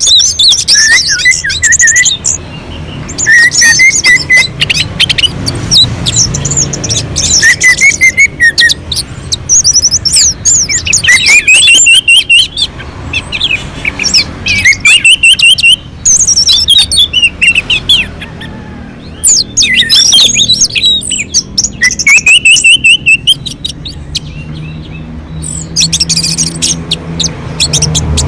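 Orange-headed thrush singing loudly and without letup, a varied song of quick whistled phrases coming one after another with short pauses between them. It is the continuous 'gacor' song that keepers play as a lure to draw caged birds into singing.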